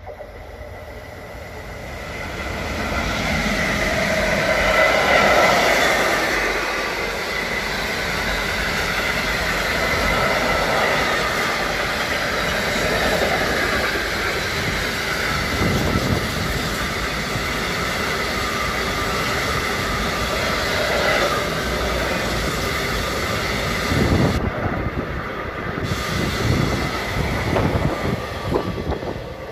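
Freight train of tank wagons passing close by behind an electric locomotive: the noise swells over the first few seconds as it arrives, then holds as a steady loud rumble of wagon wheels on the rails, with a thin high squeal running for a while.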